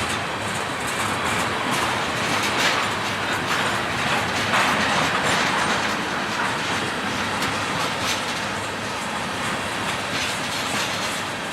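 Freight train cars rolling past at steady speed, the wheels clicking irregularly over the rail joints.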